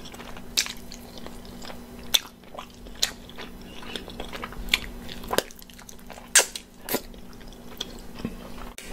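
Close-miked chewing and biting on an oven-fried chicken wing: irregular wet mouth smacks and crunchy clicks, a handful of them louder than the rest.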